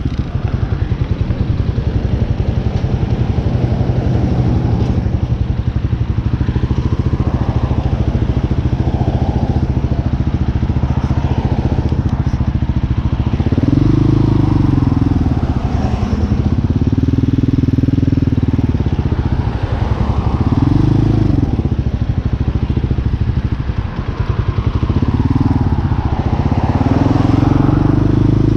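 Hawk 250 dirt bike's single-cylinder four-stroke engine running under way. In the second half its pitch rises and falls several times as the throttle is opened and closed.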